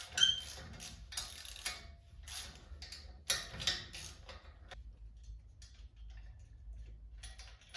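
Hand tools clicking and clinking on metal in short, irregular bursts while a radiator fan is being unbolted. The louder bursts come in the first four seconds and the clicks grow sparser after that.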